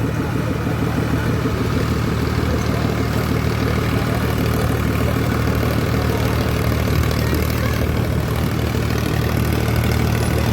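Diesel tractor engine running steadily, a loud even low drone.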